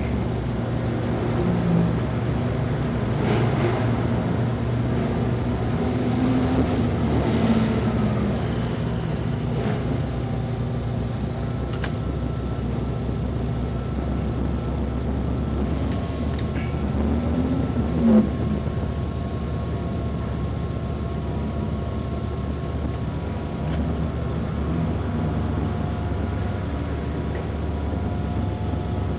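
Honda Civic engine heard from inside the cabin, running steadily with a few brief rises and falls in pitch. There is one short sharp knock about two-thirds of the way through.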